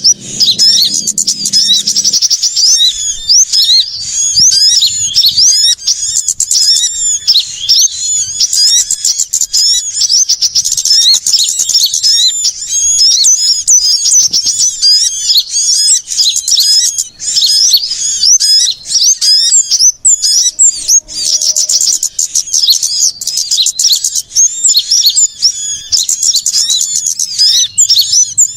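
A dense, unbroken chorus of many small songbirds chirping and twittering rapidly at a high pitch: agitated, noisy calls of the kind used as a lure to draw small birds in.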